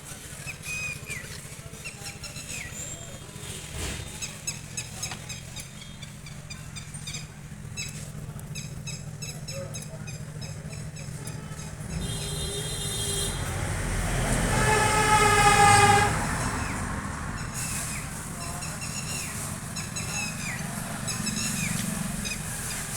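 Maruti Suzuki Ertiga's diesel engine idling with a steady low hum, birds chirping over it. From about halfway through, a horn sounds, swelling louder for a few seconds before fading.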